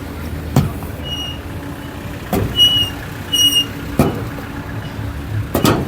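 Street traffic: a steady low engine rumble, with several sharp knocks and a few short high-pitched chirps.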